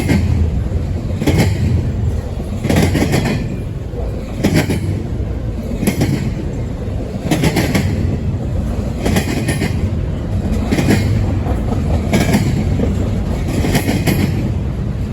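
Double-stack freight train rolling past with a steady low rumble, its wheels clacking over rail joints about every second and a half.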